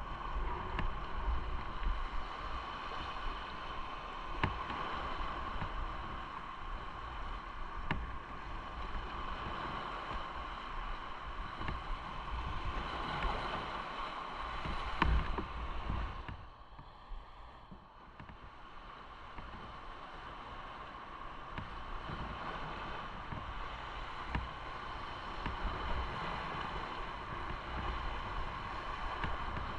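Motorcycle on the move: wind rushing over the microphone over the engine's steady drone, dropping off for about two seconds just past the middle.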